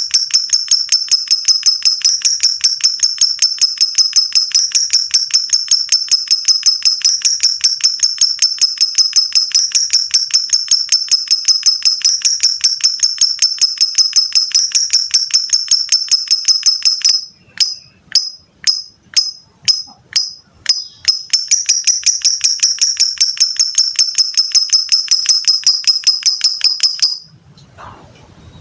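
Lovebird singing a long 'ngekek': a fast, unbroken string of high, shrill chattering notes. A little past the middle it breaks for a few seconds into separate, spaced notes, then runs on again and stops shortly before the end.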